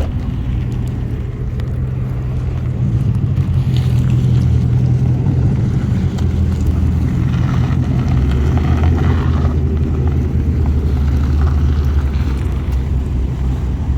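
Car engine running steadily with a low drone; it gets a little louder about three seconds in.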